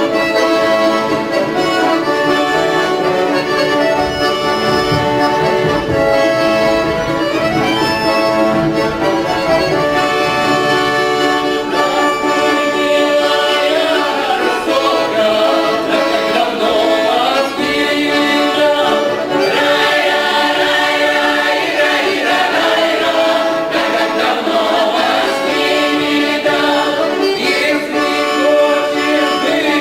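Folk song ensemble singing a Russian folk song in chorus, accompanied by accordion.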